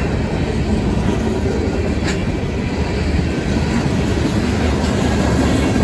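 CSX manifest freight train rolling past, a steady loud rumble of steel wheels on rail with one sharp click about two seconds in.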